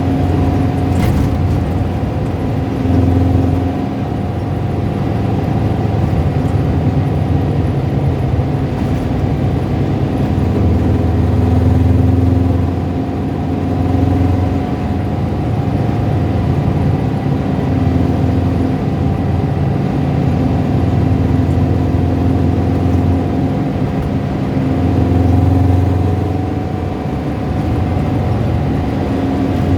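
Car engine running at low revs with a rattling, tapping noise, which the owner calls a strange rattle heard at lower revs. The engine note swells briefly a few times.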